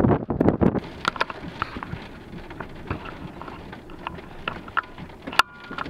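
Wind buffeting the microphone for about the first second, then scattered sharp taps of raindrops striking a hard surface, a few with a short ringing tone.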